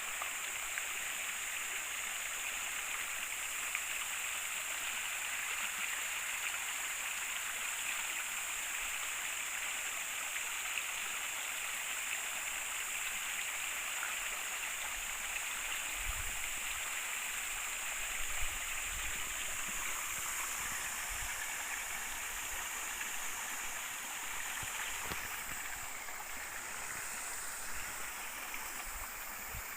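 River water running steadily, an even hiss of flowing water over stones, with a few soft low bumps around the middle.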